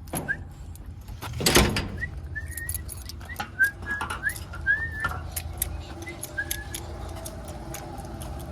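A person whistling a few short notes while keys jangle and click, with a loud clatter about a second and a half in. A steady low hum comes in about halfway through.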